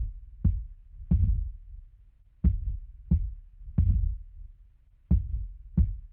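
A deep, thumping heartbeat sound effect, the beats coming roughly in pairs, a pair about every one and a half seconds.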